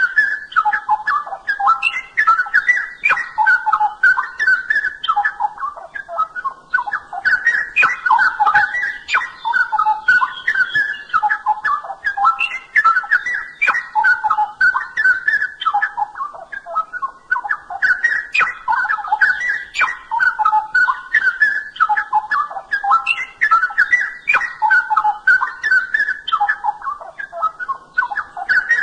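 Straw-headed bulbul (cucak rowo) singing loud, bubbling, warbled phrases that repeat about every five seconds.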